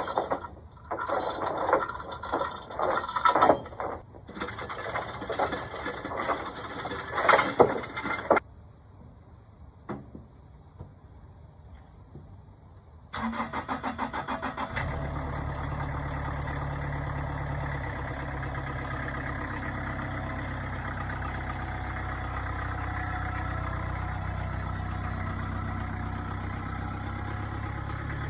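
Irregular metal clanking and scraping for about eight seconds, then a pause. About halfway through, the Morooka tracked dump truck's diesel engine cranks briefly, catches and settles into a steady idle.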